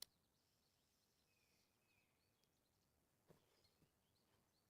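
Near silence outdoors, with faint, short chirps of small birds and a faint click at the very start.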